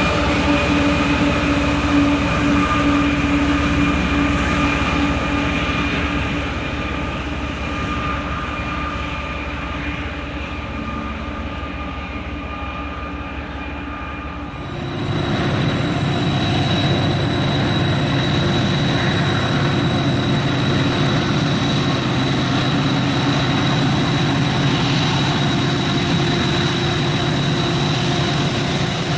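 Train rolling past with steady squealing tones from the wheels. About halfway through the sound changes abruptly to a louder, deeper rumble with a high steady whine.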